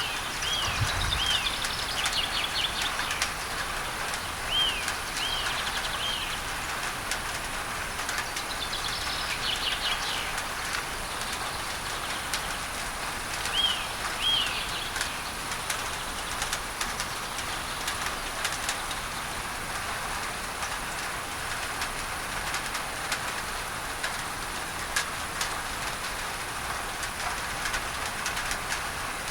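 Steady rain pattering on a tin roof, blended with a masking hiss of pink noise. Birds chirp in short arched notes, two or three at a time, in a few bouts through the first half.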